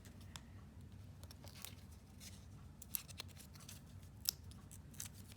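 Scattered small clicks and light rustles of paper pieces being handled, over a faint steady low hum.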